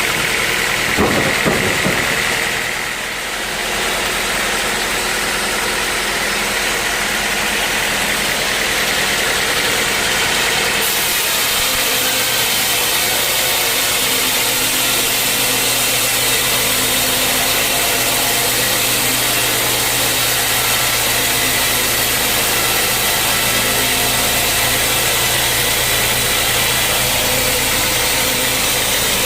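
Sawmill machinery running with a steady drone and hiss, with a couple of short knocks about a second in.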